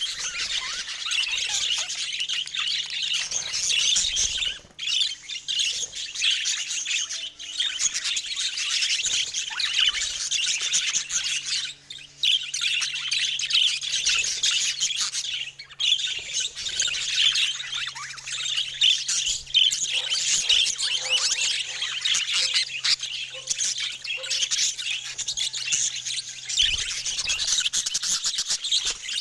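Budgies chattering and warbling: a dense, continuous stream of chirps and squawks, with brief lulls about four and a half, twelve and sixteen seconds in.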